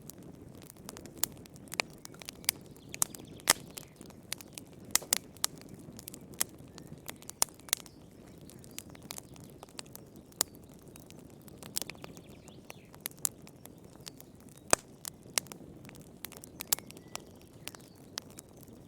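Wood fire in a fireplace crackling, with sharp, irregular pops over a low, steady rumble.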